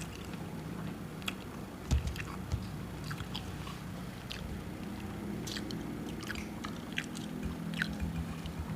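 People chewing and biting food close to the microphone: scattered crisp crunches and wet mouth clicks over a low steady hum, with a soft thump about two seconds in.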